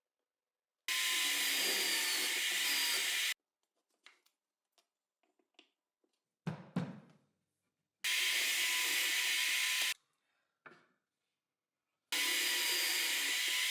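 Electric drill running in three bursts of a few seconds each while pre-drilling holes in wood, with small clicks and a knock between the bursts.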